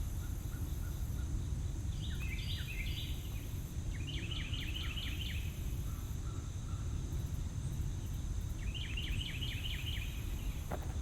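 Outdoor ambience: a steady low rumble, with a songbird singing three short runs of quick repeated notes and a thin steady high insect drone. A few footsteps come near the end.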